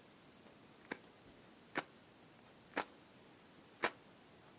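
A knife blade struck down a small ferrocerium firesteel rod four times, about once a second, each a short sharp scrape. The rod is throwing sparks.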